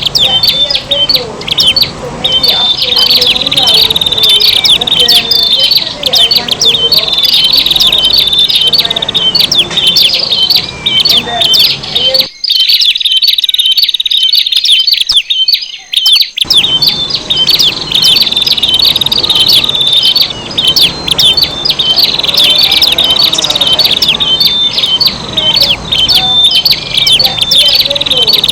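Several prinias (prenjak) calling in a dense, continuous, rapid chirping chorus. The calls are a mix of contact calls and fast 'tembakan' bursts. This is a bird-lure recording played to attract prinias.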